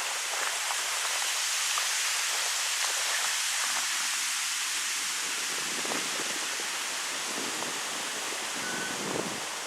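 Wind blowing through birch trees: a steady rushing hiss of stirring leaves, with rougher gusts coming in from about halfway through.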